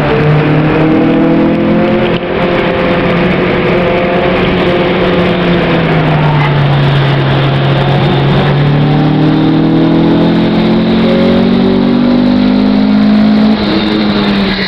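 Honda Civic engine heard from inside the cabin, driven hard on track: the revs climb, ease off through the middle and climb again. There is a short break in the sound about two seconds in and another near the end, where it changes gear.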